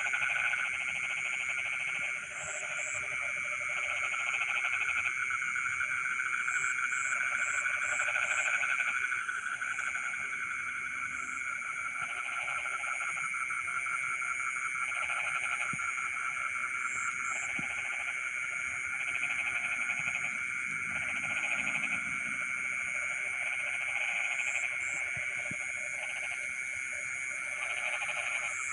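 A chorus of frogs calling in a rice paddy at night: a dense, steady high trill from many frogs, with lower pulsed croaks coming and going every second or two and short high chirps now and then.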